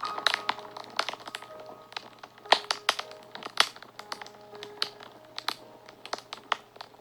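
Wood fire crackling: irregular sharp pops and snaps, several a second, a few much louder than the rest.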